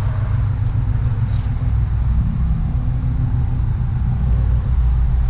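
Cammed LS7 V8 of a C6 Corvette idling steadily with a deep, low sound.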